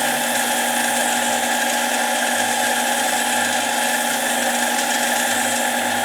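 Benchtop mini lathe running at a steady speed: an even motor whine with several steady tones over a hiss, as a part spins in the chuck for finishing.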